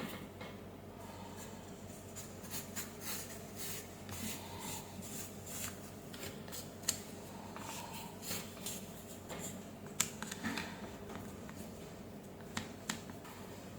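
Faint rubbing and rustling of parts being handled, broken by a few sharp clicks, as a circuit board and its parts are put back together.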